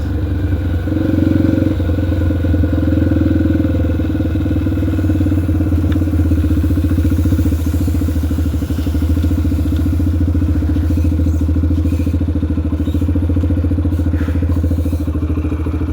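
2003 Yamaha TTR125L dirt bike's single-cylinder four-stroke engine running steadily while ridden.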